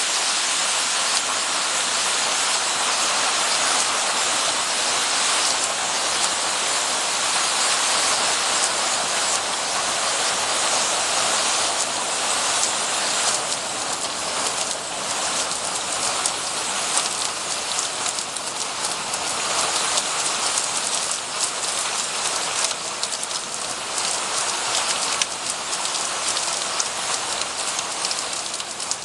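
Spring-fed water falling and splashing: a steady, even hiss of water. It turns grainier and more pattering from about halfway.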